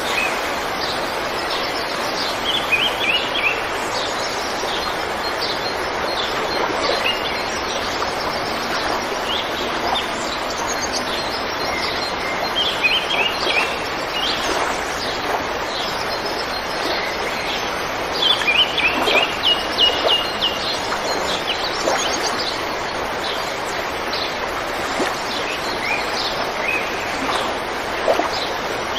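Birds chirping and calling over a steady hiss. A quick run of high notes comes back a few times.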